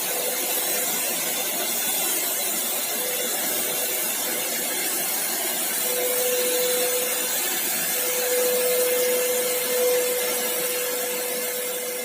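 Paint Zoom electric paint sprayer running steadily, a motor hum with a constant rush of air and spray.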